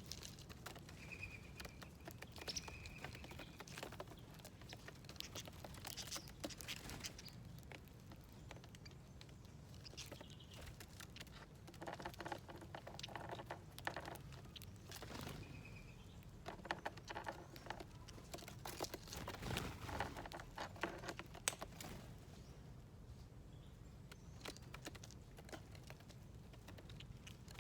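Birds feeding on seeds and nuts on a feeder plate: a faint, busy run of quick pecking taps and clicks, with a few short chirps and calls scattered through.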